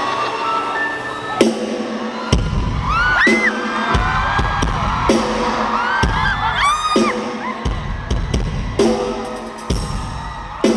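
Loud live concert music through a PA: heavy bass that cuts in and out, sharp percussive hits, and high screams from the crowd in the middle.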